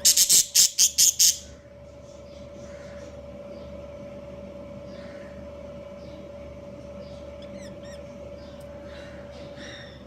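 Pet budgerigars calling: a quick run of about six loud, harsh notes at the start, then softer scattered chirps and a few short gliding whistles over a steady hum.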